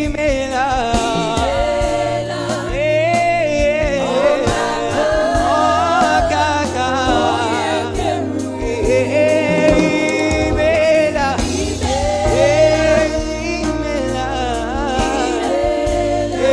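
Gospel worship music: a singer's voice wavering over sustained keyboard chords, bass and a steady beat.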